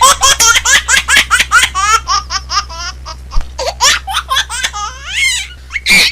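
Small pet birds chattering, a fast run of short chirps and rising and falling squeaky notes, several a second.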